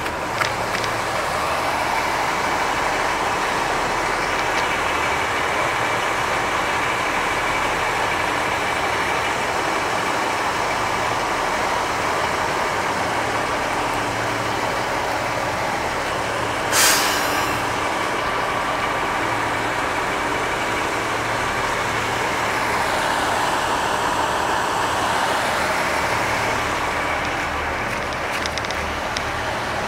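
Diesel train running at the station platform with a steady engine noise, and a short hiss of air about halfway through.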